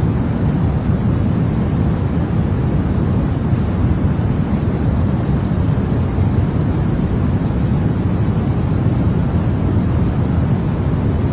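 Continuous sleep-aid noise for babies, sold as white noise: a loud, even rushing hiss with no pitch or rhythm, deep and weighted toward the low end.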